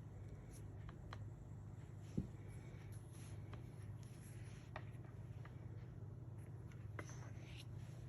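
Scrapbook album pages being handled and turned: light paper rustling with scattered small clicks and taps, one sharper tap about two seconds in, over a steady low furnace hum.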